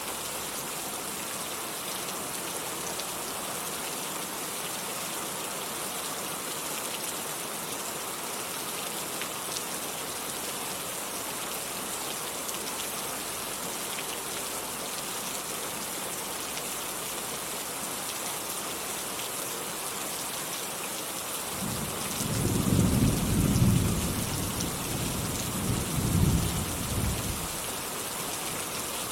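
Steady rain falling, with a low rumble of thunder rolling in about 22 seconds in and peaking twice before fading over some six seconds.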